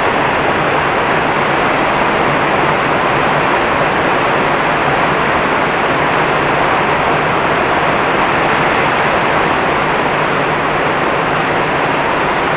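Heavy tropical downpour: a steady, dense roar of rain pouring down, with no change or let-up.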